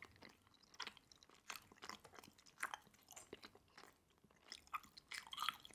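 Faint close-miked chewing with lips closed: scattered soft, wet mouth clicks and smacks from a mouthful of food.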